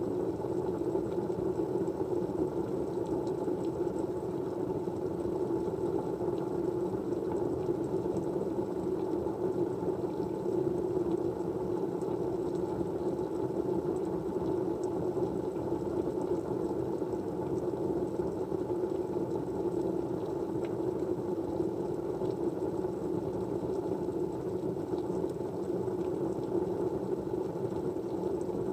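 Steady white-noise background, a low, even rushing hiss with faint scattered ticks.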